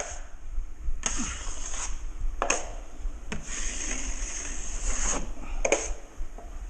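Drywall blade scraping setting-type joint compound across a ceiling patch while feathering the edges of a skim coat: several scraping strokes, irregularly spaced.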